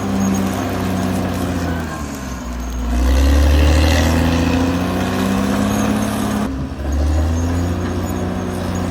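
Caterpillar D6R XL bulldozer's diesel engine running under varying load. Its note sags about two seconds in, then comes back louder and deeper for a few seconds before settling again.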